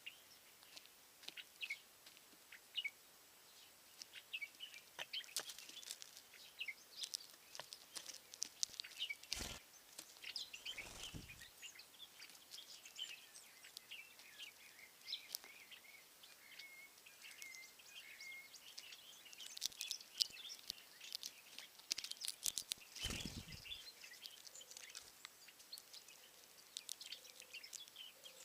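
A chorus of small wild birds chirping and singing, many short overlapping calls and trills throughout. Three brief low rumbles come about nine, eleven and twenty-three seconds in.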